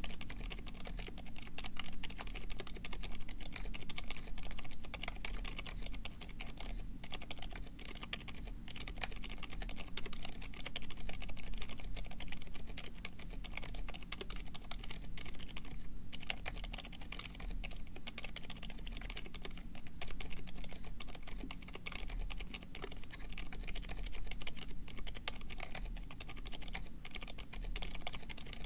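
Continuous typing on a Drop Tokyo60 aluminum mechanical keyboard with lubed Gazzew Boba U4 silent tactile switches and PBT keycaps: a dense, steady stream of soft keystrokes with no pauses. A faint steady low hum runs underneath.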